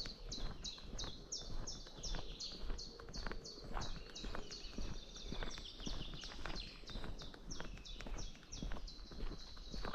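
A bird singing a fast, even string of short high chirps, about three a second, over the crunch of a hiker's footsteps.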